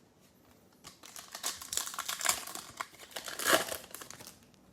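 Crinkling and handling of a trading card pack wrapper and football cards, a dense crackle that starts about a second in and peaks about three and a half seconds in.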